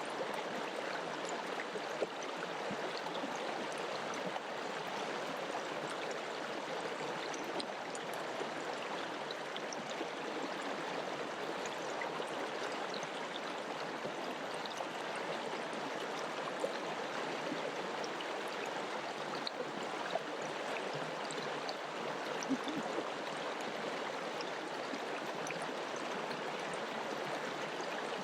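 Mountain river rushing steadily over rocks: a continuous, even rush of water with a few faint splashes.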